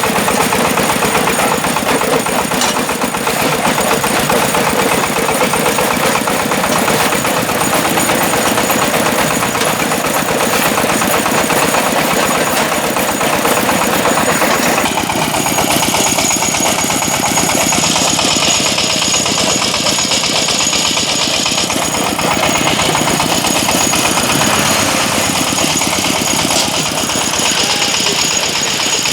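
Engine-driven brick-breaking machine running: a loud, steady engine with dense mechanical clatter. The tone of the noise shifts about halfway through.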